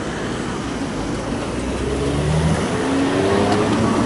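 A road vehicle's engine accelerating over steady traffic noise, its pitch rising twice in the second half.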